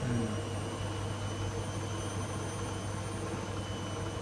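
Blomberg WMI7462W20 integrated washing machine running with a steady low hum, faint steady high whines above it.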